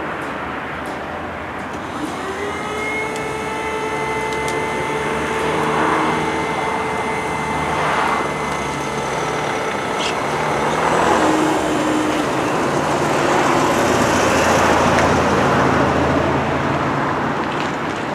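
Vehicles passing at a railway level crossing. A steady whine with several overtones starts about two seconds in and stops about nine seconds later.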